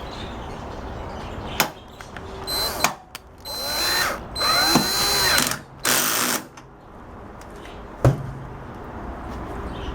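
Cordless drill-driver driving a screw into the sheet-metal cover of a microwave oven, in about four short bursts, the motor speeding up and slowing with each. A sharp click comes before the bursts and another after them.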